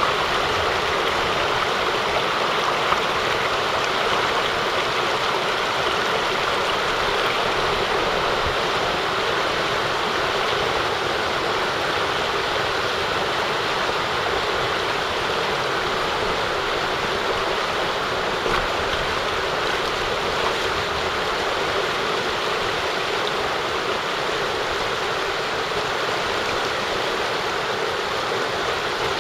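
Mountain stream water rushing steadily, an even, unbroken rush.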